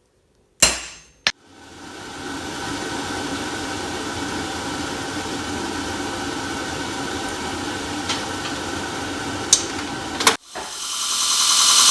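An electric motor-driven machine switched on with a sharp click, spinning up over about a second and a half and then running steadily with a faint hum. About ten seconds in it breaks off abruptly and a louder, higher-pitched machine sound builds up.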